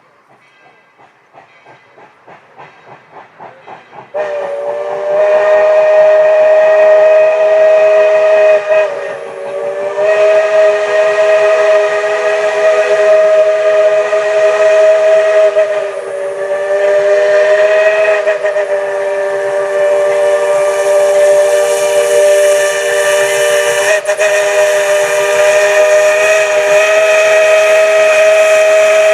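Steam locomotive blowing a long whistle of several tones at once, held for over twenty seconds with a couple of brief dips. It comes in suddenly about four seconds in, after a faint rhythmic chuffing that grows louder.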